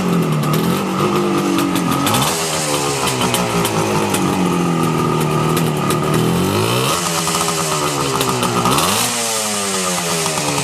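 Suzuki GT250's two-stroke parallel-twin engine running and being blipped: it ticks over, then the revs climb sharply about two seconds in, near seven seconds and again near nine, each time sinking back slowly toward idle.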